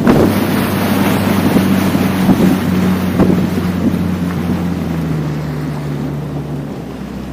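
Motorboat engine running steadily under wind buffeting the microphone. The engine's pitch drops a little about five seconds in, and the whole sound eases off gradually as the boat slows.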